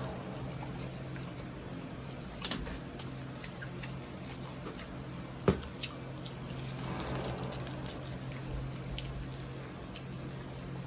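Close-up mukbang eating sounds: wet, squishy chewing of deep-fried pork knuckle with scattered small clicks, the sharpest a single click about five and a half seconds in, over a steady low hum.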